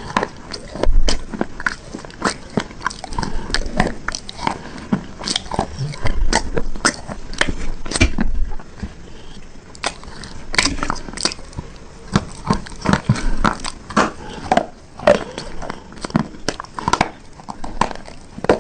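Close-up biting and chewing of hard, brittle bars: a dense, irregular run of sharp crunches and crackles.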